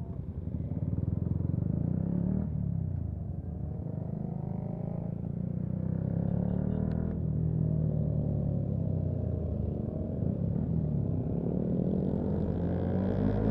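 Yamaha MT-125's single-cylinder four-stroke engine accelerating through the gears. Its pitch rises and then drops at each gear change, several times over.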